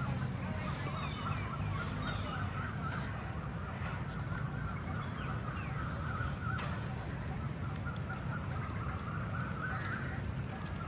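Birds calling in a continuous, rapid chatter, over a steady low rumble.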